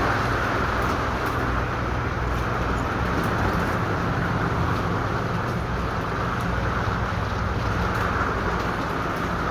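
A steady, even low mechanical hum with a constant rushing noise over it.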